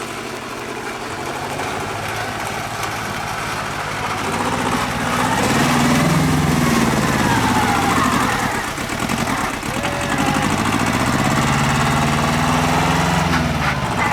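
Tractor engine running and revving: its pitch climbs and drops back twice, getting louder from about four seconds in.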